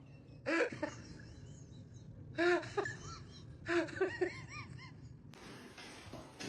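Three short bursts of vocal sound about a second and a half apart, their pitch rising and falling in arches. A steady hiss comes in near the end.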